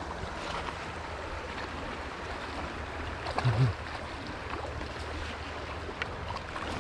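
Steady rush of a flowing trout stream, with one brief low thud about halfway through.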